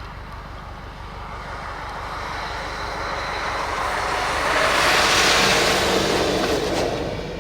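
A vehicle driving past on a snowy road: its tyre and engine noise builds, peaks about five seconds in, then fades, over a steady low hum.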